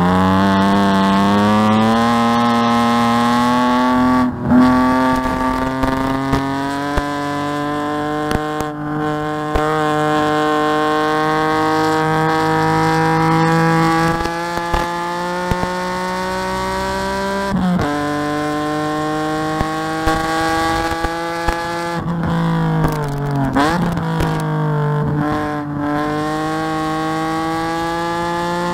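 Race-prepared BMW E46's engine heard from inside the cabin, pulling through the gears in long steady rises in pitch, with quick gear changes between them. In the last third the revs fall, with a quick blip on a downshift, then climb again.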